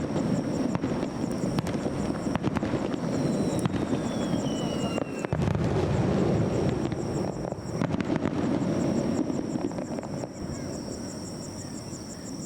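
Aerial fireworks shells bursting in rapid succession: a dense, continuous rumble peppered with sharp cracks. A whistle falls in pitch about three seconds in, and the barrage eases slightly near the end.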